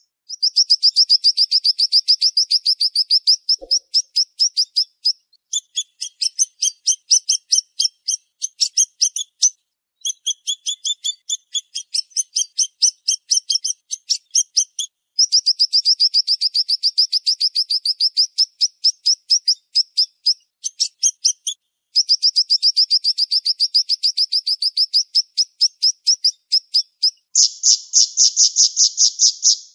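Siri-siri songbird singing rapid, high trills: long strings of fast, closely packed notes in bursts of several seconds with short breaks between them. Near the end the song changes to a harsher, buzzier trill.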